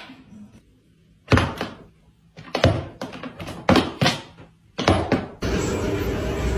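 A series of loud thumps or bangs, coming in four pairs about a second apart, like a door being knocked or banged. Near the end a steady rushing noise cuts in suddenly.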